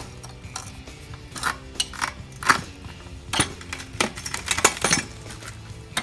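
Lever-operated geode cracker worked by hand, its metal frame and lever giving an irregular run of sharp metallic clicks and clinks, about a dozen, bunched between about a second and a half and five seconds in, as pressure is put on a large geode that has not yet split.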